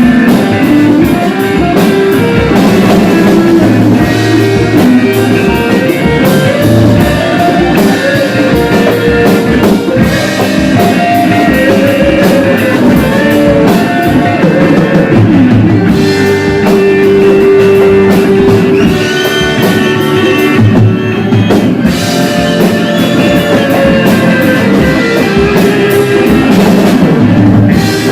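Rock band playing loudly, with electric guitar and a drum kit.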